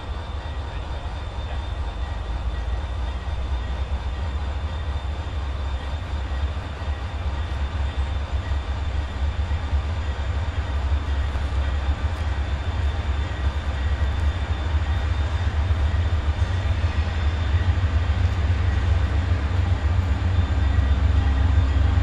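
Diesel freight train approaching: a low engine rumble that grows steadily louder as the GE C40-8-led locomotive consist draws closer.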